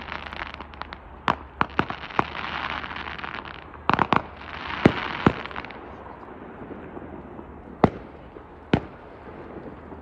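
Fireworks going off: sharp bangs of shells bursting, with long stretches of crackling after them. After about six seconds the crackling stops, and there are only two more single bangs near the end.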